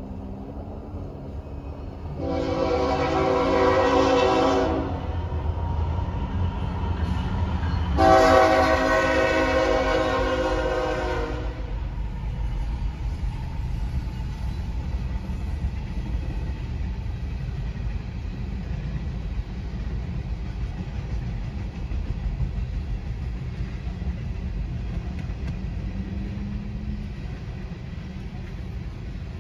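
Locomotive horn sounding two long blasts, about two and eight seconds in, as a train approaches a grade crossing. The steady low rumble of the train rolling through the crossing follows.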